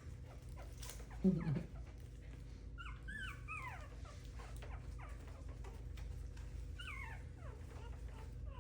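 Coton de Tulear puppies whining and yipping in high, falling squeaks, a cluster about three seconds in and another near seven seconds. A short, low, voice-like sound comes about a second in and is the loudest moment.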